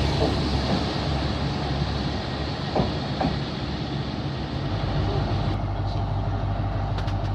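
Diesel train engine running with a steady low rumble, settling into a steadier, deeper drone about four and a half seconds in.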